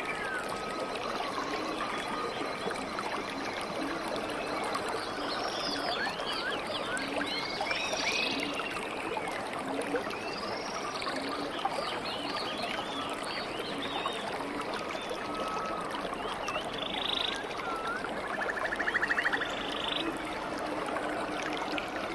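Running water trickling steadily, with many birds chirping and calling over it. A fast trill, the loudest call, comes about nineteen seconds in.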